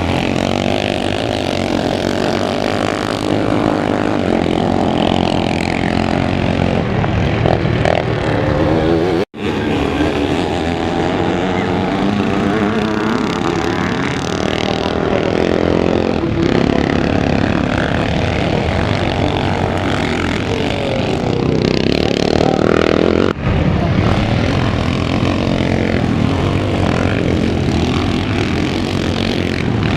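Several motocross motorcycle engines revving hard and easing off over and over as the bikes race around the track, pitch rising and falling with each throttle change. The sound drops out for an instant about nine seconds in.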